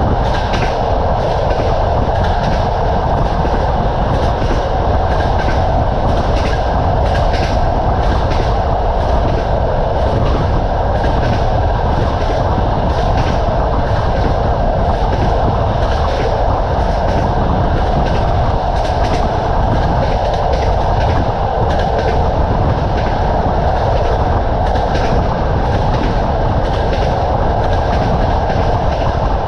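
Train wheels clattering steadily over the rail joints, with the continuous rumble of a moving railway carriage and short sharp clicks repeating throughout.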